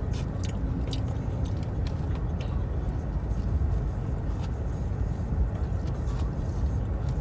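Parked car's engine idling with the air-conditioning fan blowing, a steady low rumble inside the cabin, with faint clicks of chewing over it.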